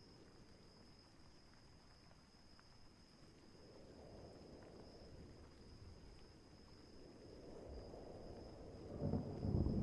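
Night nature ambience: a steady high insect trill, with a low rumble of distant thunder that builds and is loudest near the end.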